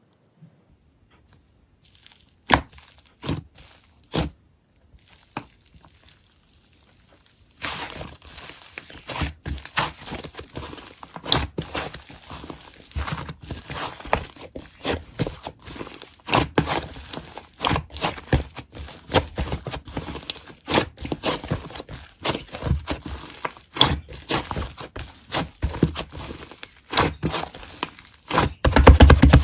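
Irregular crinkling, scraping and tapping handling noises: a few separate clicks at first, then a near-continuous crackle of rustles and knocks from about eight seconds in, with a louder thump at the end.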